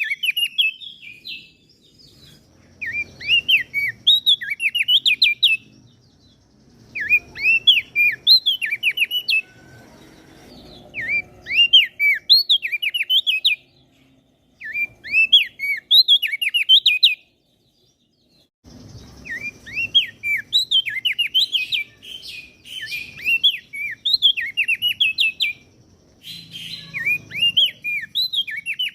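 A small songbird singing fast, chattering phrases of quick, high notes that dart up and down. The phrases come in bursts of two to three seconds with short pauses between them, about seven bursts in all.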